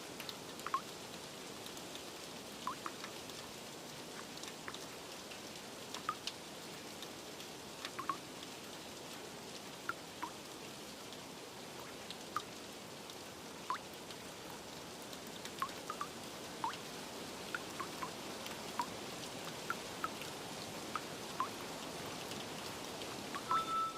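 Steady rain with irregular water drops plinking, roughly one every second.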